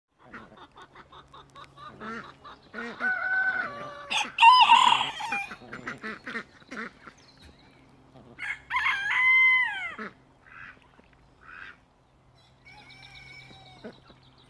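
Rooster crowing twice, once around three seconds in and again around nine seconds in, each crow held and then dropping in pitch at the end, with short, softer calls between.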